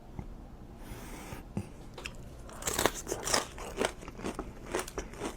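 Close-miked eating: biting and chewing with crisp, crunchy clicks, which grow dense from about halfway through.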